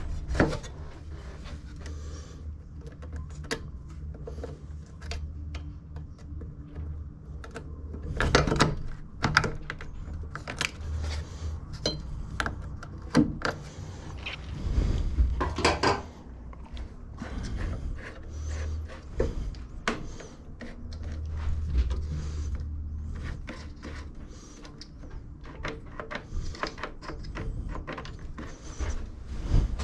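Hand tools and metal mower parts being handled during a repair: irregular clicks, clatters and scrapes, busiest about eight seconds in and again around fifteen seconds, over a low steady hum.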